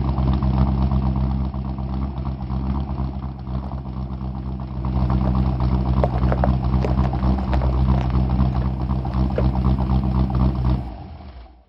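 Red Chevrolet Suburban's engine running steadily at low revs as the truck rolls slowly past, with scattered sharp ticks and pops in the second half. The sound fades out quickly near the end.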